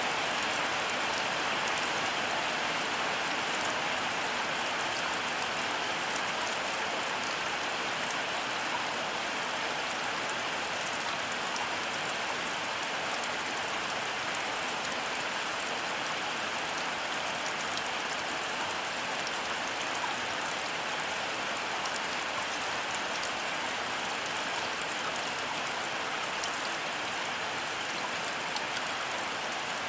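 Heavy rain falling steadily: a dense, even hiss with fine drop ticks through it.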